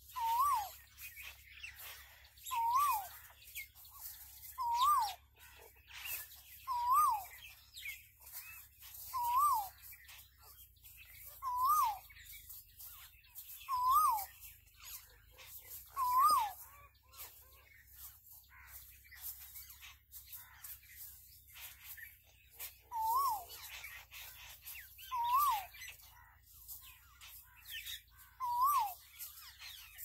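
A bird calling a short whistled note that rises and then falls, repeated about every two seconds, eleven times with a pause in the middle, over faint, scattered high chirping.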